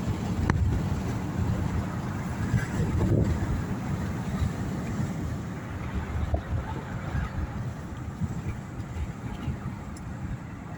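Steady low rumble of a moving car heard from inside, road and engine noise with no distinct tones.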